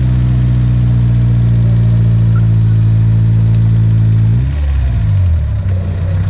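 Off-road vehicle's engine held at high, steady revs while it struggles to climb out of mud, then about four seconds in the revs drop suddenly and waver lower toward idle.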